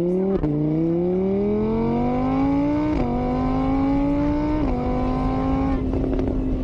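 Motorbike engine accelerating up through the gears: the pitch climbs, drops back at each of three gear changes, then holds steady near the end.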